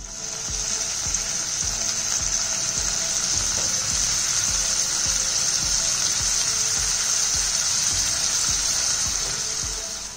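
Loud, steady sizzling of tomato-onion masala in hot oil as defrosted green peas are added and stirred in. The hiss starts at once and fades near the end.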